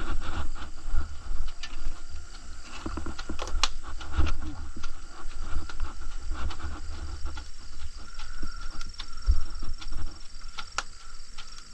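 Wood fire burning, with scattered sharp crackles and pops from the firewood over a heavy low rumble.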